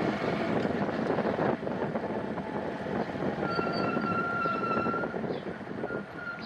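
Road vehicle noise, a steady rumble and rush, with a thin held tone for about a second and a half about halfway through.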